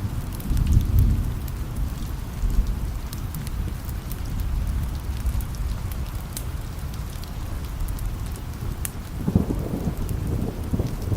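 Steady rain with low rolling thunder, the rumble swelling about a second in and again near the end, and scattered sharp ticks over the hiss.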